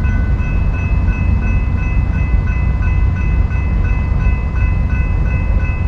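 BNSF freight train rolling past: a loud, steady low rumble of the cars on the rails, with steady high ringing tones and a quick repeating pulse above it.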